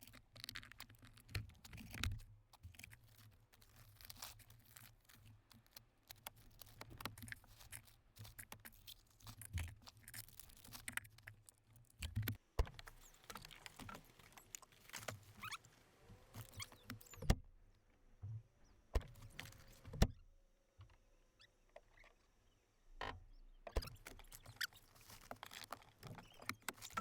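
Scattered knocks, clinks and rustling of loose items being picked up and moved while a truck's cab is cleaned out.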